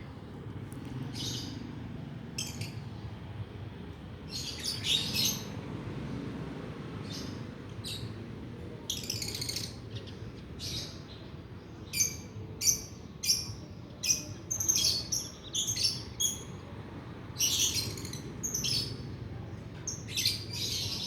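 Lovebirds giving short, shrill chirps and squawks, scattered at first and coming quickly one after another from about halfway through.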